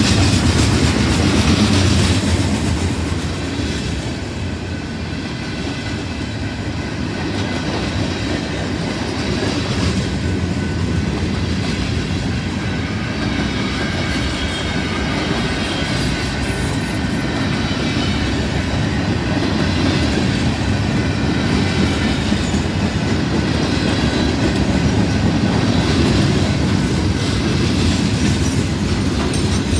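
Freight train cars rolling past on the rails: steady wheel-on-rail noise with faint high-pitched wheel squeal.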